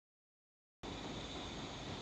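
Silence, then a little under a second in a steady background hiss starts, with a faint high whine held through it.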